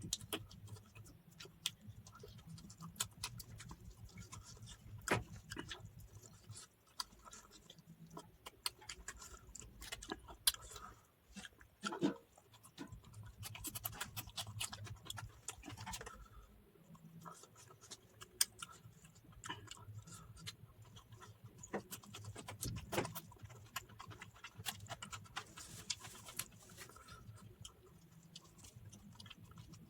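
Close-up eating sounds of someone eating rice and curry with the hands: irregular wet clicks and smacks of chewing, over a faint low hum.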